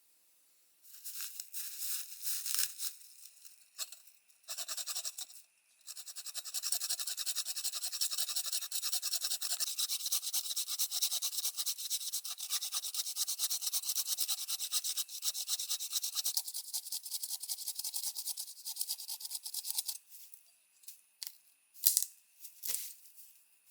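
Rapid back-and-forth scraping or rubbing, in short spurts at first and then steady and continuous for about fourteen seconds, stopping around twenty seconds in; a few sharp clicks follow near the end.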